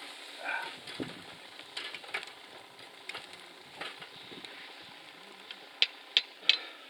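Wood fire crackling in a round folding fire pit, with food sizzling over it; three sharp pops close together near the end.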